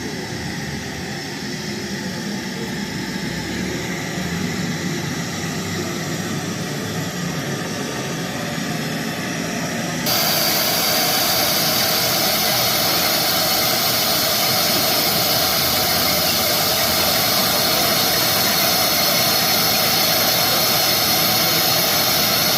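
Test noise played through a large carnival sound system for an RTA (real-time analyser) check: a steady, even hiss across all pitches. About ten seconds in it jumps louder and brighter.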